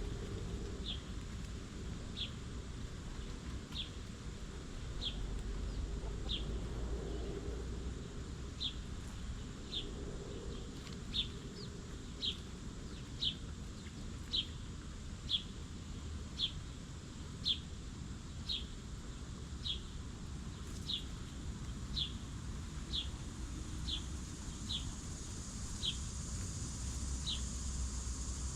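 A wild bird repeating a short, high, downward-slurred chirp about once a second, steady and unvarying, over a low background rumble.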